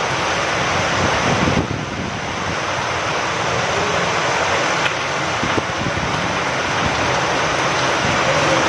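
Steady rain falling hard, with wind.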